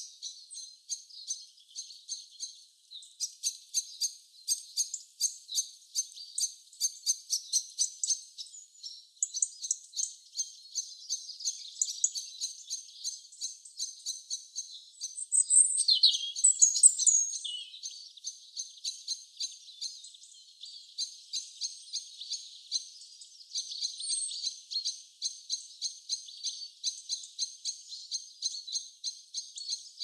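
Small birds chirping and singing in quick runs of high notes, with a louder burst of calls about halfway through.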